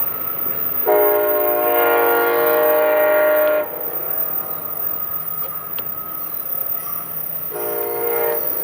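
Passenger train horn sounding a long blast of about two and a half seconds, then a short blast near the end. Several chime tones sound together in each blast, over the steady running noise of the train.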